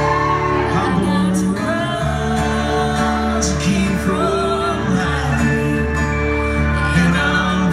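Live band playing country music at full volume, a steady bass under the melody.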